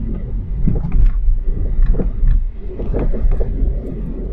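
Car driving slowly on a snow-covered street, heard from inside the cabin: a steady low rumble of engine and tyres, with several short knocks and thumps from the car along the way.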